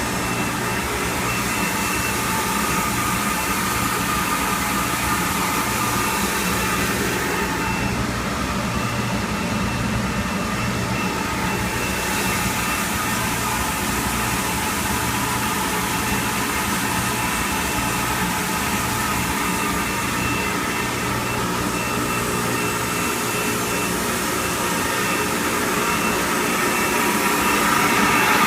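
Industrial parts washer running: a steady machine drone with a low hum and a thin high whine over a hiss, growing louder near the end.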